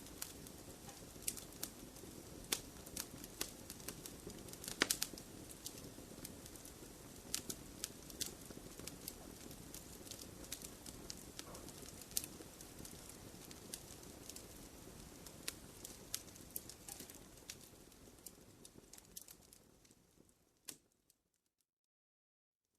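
Wood fire crackling in a fireplace: irregular sharp pops and snaps over a low, steady rush of flame. Near the end the sound fades away to silence.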